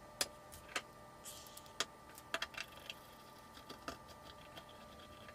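Handling noises of a spoon and container: a dozen or so scattered light clicks and clinks.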